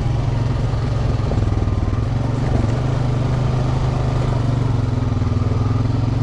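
Off-road vehicle's engine running at a steady pitch as it is ridden along a trail.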